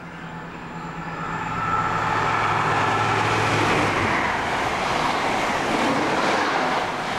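HST express passenger train passing through a station at speed. The leading power car's diesel engine hums steadily for the first few seconds, then a loud rush of wheels on the rails builds and holds as the coaches go by.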